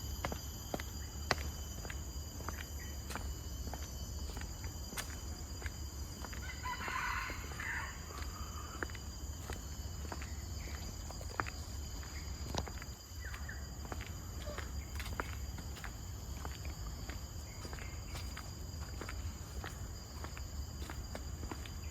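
Footsteps on a forest trail over a steady high buzz of insects, with a short bird call about seven seconds in.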